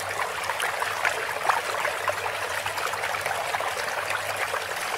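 Steady splashing and trickling of water in a pond crowded with koi, with many small splashes throughout.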